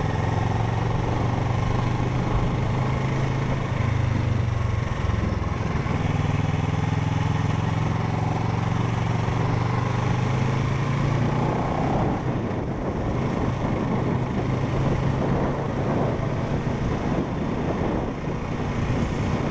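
Parallel-twin motorcycle engine running under way at a steady engine speed. About twelve seconds in, its steady note gives way to a rougher, less even sound.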